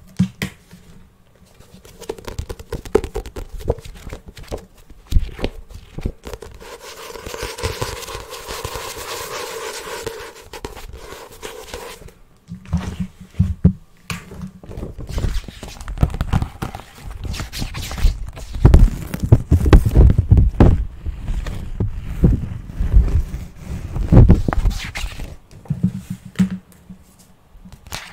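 Fast, irregular fingertip tapping on objects, with a stretch of scraping hiss partway through and heavier low thumps in the second half.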